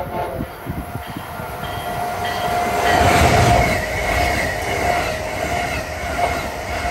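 Amtrak Acela high-speed electric trainset passing close by at speed: a rushing noise of wheels on rail and air that swells to its loudest about three seconds in, with a steady whine running through it.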